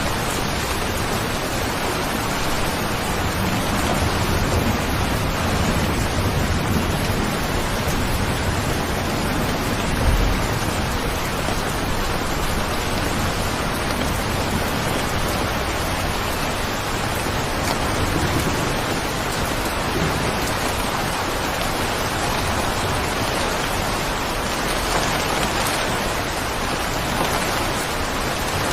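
Steady rain, an even hiss of falling water, with one short low thump about ten seconds in.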